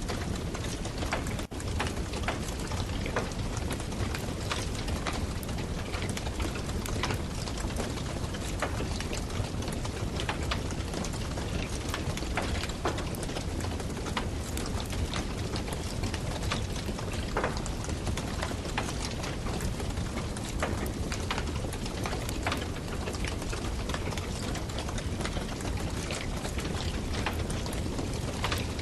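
Campfire burning, its wood crackling steadily with many small sharp pops over a constant hiss.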